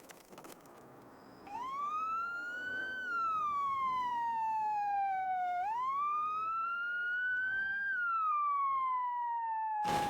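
Whale call: one long tone that rises, slowly falls, rises again and slowly falls, over a faint watery hiss.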